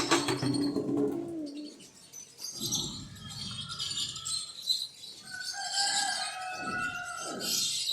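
Several birds chirping and calling. A low, held call sounds for about the first second and a half, and in the second half a quick run of repeated falling calls comes about twice a second.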